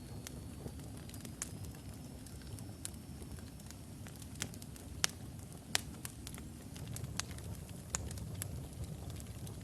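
Wood fire burning in a fireplace: a steady low rumble with irregular sharp crackles and pops, two of them louder about five and six seconds in. A faint thin high whistle runs through the first half.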